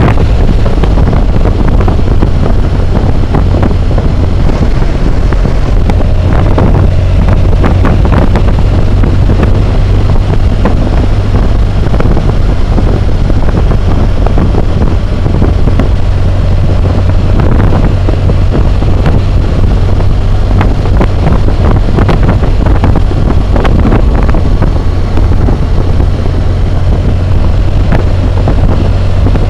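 Loud, steady wind roar on a helmet-mounted camera's microphone while riding a BMW motorcycle at road speed, with the motorcycle's engine running steadily underneath.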